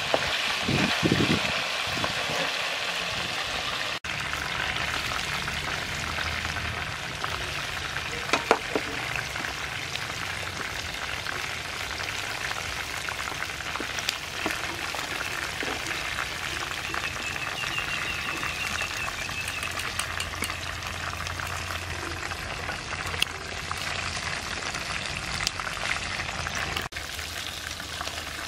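Chicken wings frying in hot oil in a pan: a steady sizzle, with a few sharp clicks of the metal spatula against the pan.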